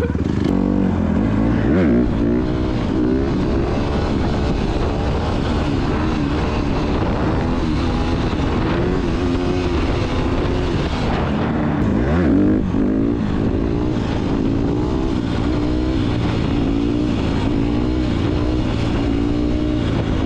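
Small off-road engine under hard riding, its pitch climbing repeatedly and dropping back as the rider accelerates and shifts.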